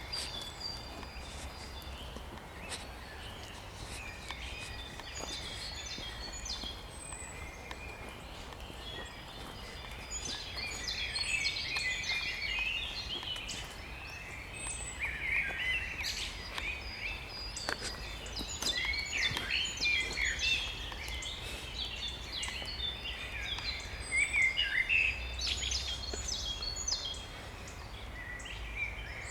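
Several songbirds singing at once, a spring dawn-chorus-like mix of overlapping trills, chirps and whistled phrases, thickest in the second half, over a steady low outdoor rumble.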